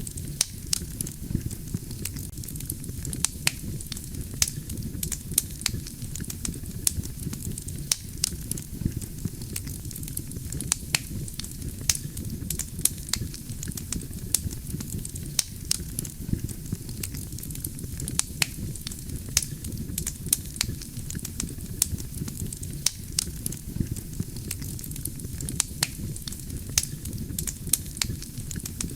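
Wood campfire burning: a steady low rumble of the flames with frequent sharp crackles and pops from the burning logs, scattered irregularly, a few louder than the rest.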